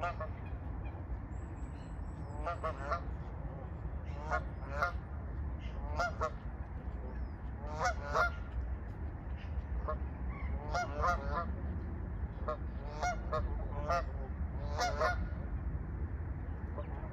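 Ducks quacking in quick runs of several calls, a new run every second or two, over a steady low rumble.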